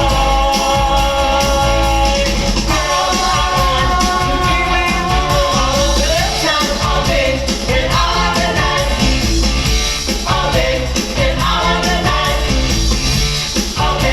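A rock-and-roll song with a lead singer over a band with guitar and a steady beat.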